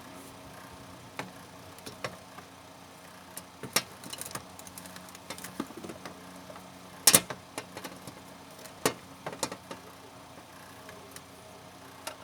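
Scattered clicks and knocks of small hard tools and parts being handled, about a dozen in all, the loudest about seven seconds in, over a faint steady hum.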